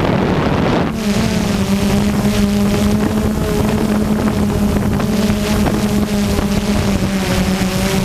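DJI Phantom 2 quadcopter's propellers and motors humming steadily, buffeted by heavy wind noise on the microphone. The first second is mostly wind rush, then the steady hum comes in about a second in and holds.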